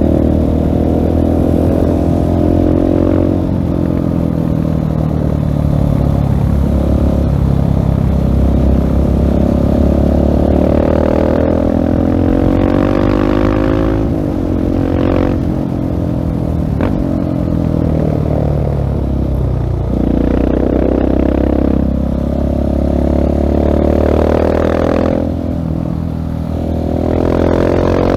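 Single-cylinder engine of a 2016 Husqvarna 701 Supermoto through a LeoVince full-system exhaust, ridden hard. Its pitch climbs under throttle and falls back again and again as the rider accelerates, shifts and rolls off.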